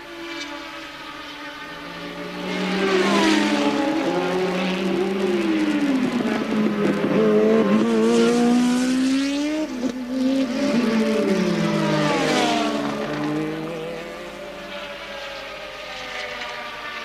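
Several 1983 Formula One cars passing one after another at racing speed. Their engine notes overlap and rise and fall in pitch, swelling to a peak a couple of seconds in and dying down again near the end.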